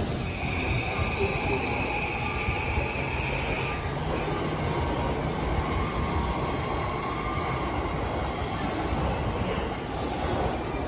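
Electric commuter train moving through the station: a steady rumble of wheels on rails, with a high steady whine or squeal for the first few seconds and a lower whine around the middle.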